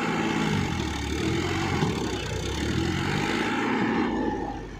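Powertrac 439 Plus tractor's diesel engine running, its pitch rising and falling as engine speed changes, then dropping in loudness near the end.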